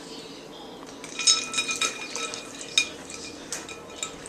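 Ice cubes clinking and knocking against a water bowl as a dog plays in the water, a quick run of ringing clinks starting about a second in, the loudest near the start and another sharp one about halfway through.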